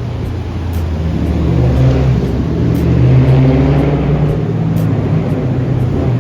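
Car engine running loud and close, its low drone swelling to a peak about halfway through and then easing off.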